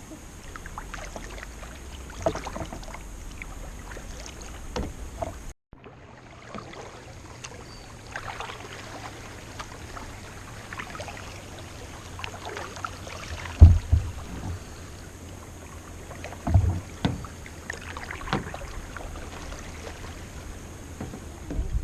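Kayak being paddled: paddle blades dipping and splashing in the river water, with two dull knocks partway through, the loudest sounds here. The sound drops out briefly near the start, at an edit.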